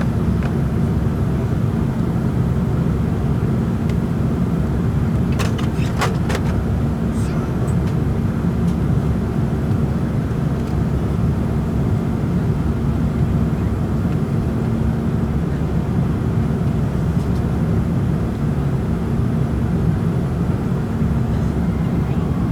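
Steady cabin noise of an Airbus A340-300 in flight: the even rumble of engines and airflow with a constant low hum, and a few light clicks a little after five seconds in.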